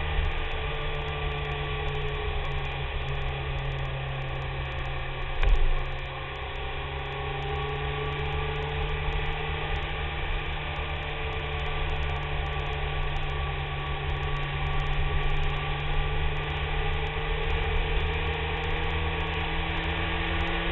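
BMW K1300S inline-four engine running at cruising speed, heard from a camera on the fairing together with steady wind and road noise; the engine note climbs slowly in pitch over the last several seconds. One short thump about five and a half seconds in.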